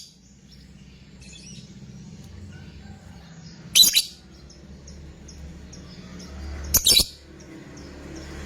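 Lovebird giving short, shrill, harsh shrieks: one about four seconds in and a quick double call about three seconds later, with faint high chirps in between.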